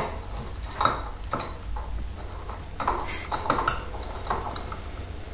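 Irregular metallic clicks and clinks of an adjustable spanner working on a tap's valve assembly, loosening it anti-clockwise.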